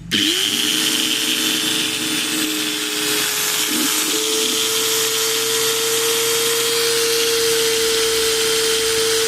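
Bosch GWS 600 angle grinder switched on: the motor spins up within a fraction of a second and then runs at a steady speed, a steady whine over a hiss.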